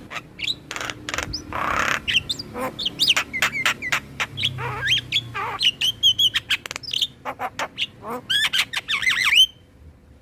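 Javan myna (jalak kebo) singing a fast, busy song of harsh squawks, clicks and gliding whistles, which stops abruptly near the end.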